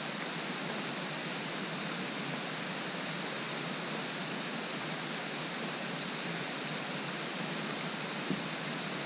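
Steady rain falling, an even hiss with no break. One brief thump sounds near the end.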